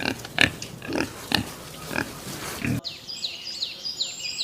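Pig grunting in a string of short, quick grunts. About three seconds in the sound cuts abruptly to small birds chirping in quick falling notes.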